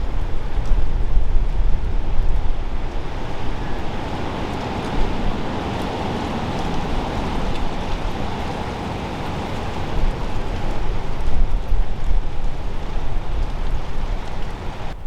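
Wind buffeting the microphone with a low rumble and flutter, over a steady rushing noise that swells in the middle.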